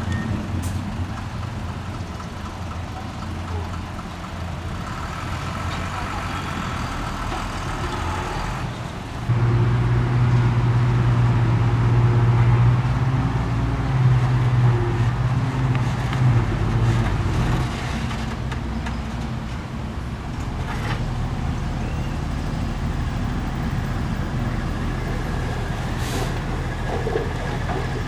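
Diesel engines of heavy earthmoving machinery running steadily. About nine seconds in, one engine comes under load and runs louder with a strong low drone for about eight seconds, then drops back.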